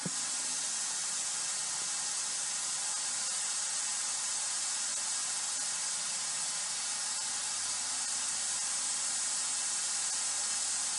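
Steady white-noise hiss from an electronic white noise device run for EVP recording.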